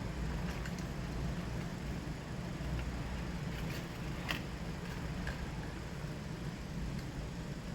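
Car engine idling steadily, with a few faint clicks over it.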